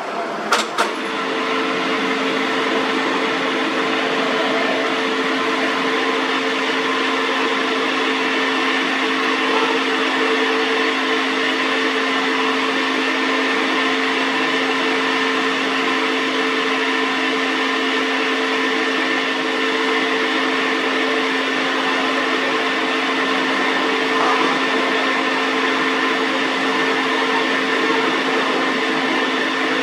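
Metal lathe running steadily, its motor and drive giving a constant hum with several steady tones. Two sharp metallic clicks come just before it settles, about half a second in.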